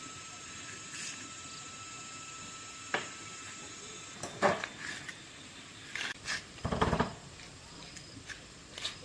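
Scattered clicks, taps and knocks of small objects being handled, the loudest a cluster of knocks near the middle, over a faint steady high whine.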